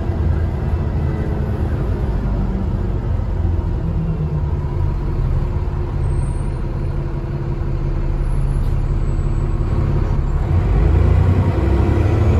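Diesel engine of an Alexander ALX400 double-decker bus running under way, heard from on board as a steady low rumble. Near the end the engine grows louder and a faint high whistle, the bus's turbo whistle, starts to rise.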